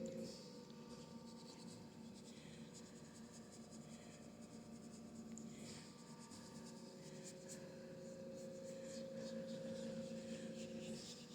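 Faint, repeated scratchy swishes of a paintbrush working acrylic paint across a canvas, over a steady low hum.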